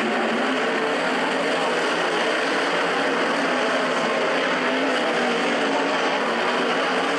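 Several 360 sprint car engines running on a dirt oval, their pitches wavering up and down over a steady wash of engine and track noise.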